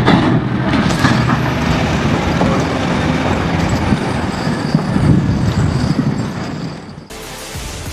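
Heavy machinery running: a diesel engine with mechanical clatter, loud and steady. About seven seconds in it cuts off suddenly and music begins.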